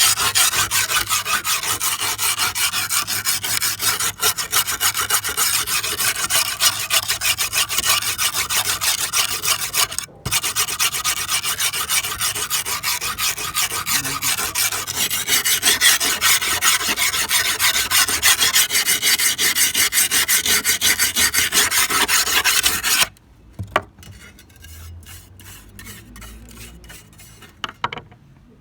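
Rapid abrasive rubbing strokes, as of filing, rasping or sanding a workpiece by hand, with a brief pause near the middle. The rubbing stops suddenly near the end, leaving a few faint light clicks.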